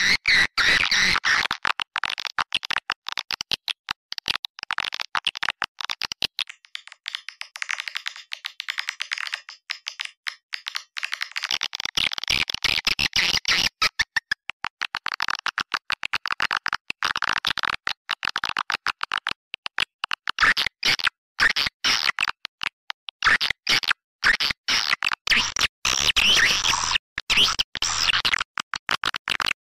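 Swiftlet calling-sound recording: a dense, rapid run of high twittering chirps from many birds, of the kind played in a swiftlet house to lure edible-nest swiftlets.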